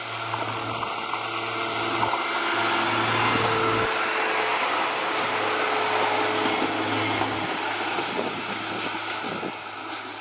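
Blue diesel multiple-unit passenger train running along the track: a steady engine hum with wheel and rail noise, swelling a little as it passes and easing off near the end.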